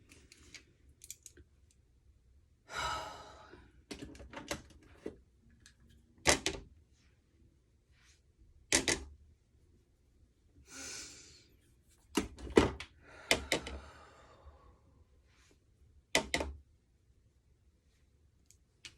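Small objects handled and set down: a string of sharp knocks and clacks, with a few short breathy rustles in between.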